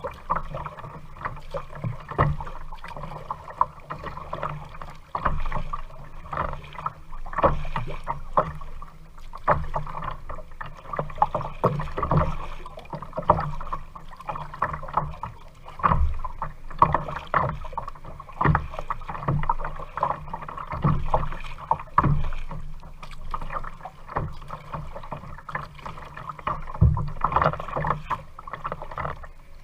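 Kayak being paddled on a lake: paddle strokes in the water, with irregular knocks and bumps against the hull.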